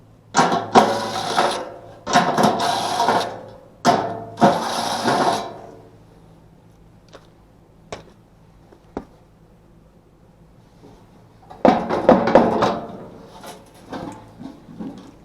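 Repeated bursts of mechanical clattering and ratcheting in the first five seconds, then a few isolated clicks, then another clattering burst, over a faint steady low hum.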